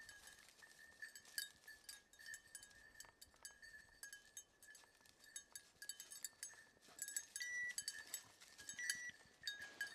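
Faint, continual tinkling of a bird dog's collar bell as a German shorthaired pointer searches the cover for a grouse.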